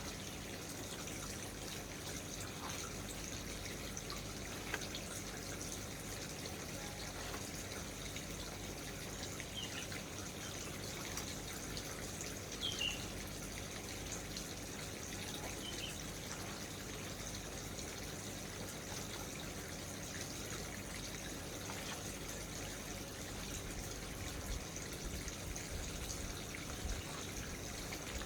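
Steady sound of running water, with a few faint, brief high chirps.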